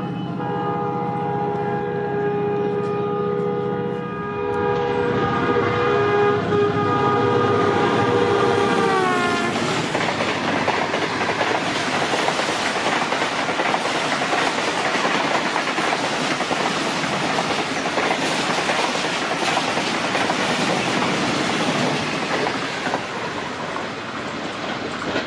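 A ZCU30 diesel locomotive sounds its horn in one long, steady blast as it approaches, and the horn's pitch drops as the engine passes, about nine seconds in. The passenger coaches of an express then rush past at about 111 km/h with a continuous clickety-clack.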